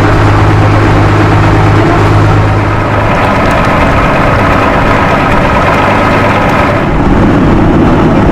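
Tour boat's engine running steadily and loud, a constant low hum with a humming tone above it; about seven seconds in, its note shifts, with the higher part dropping away.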